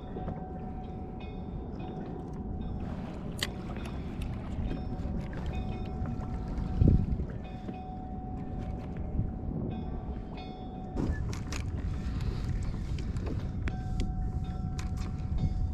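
Steady low rumble of wind and water around a fishing kayak, with a thin steady whine running under it and a single loud thump about seven seconds in.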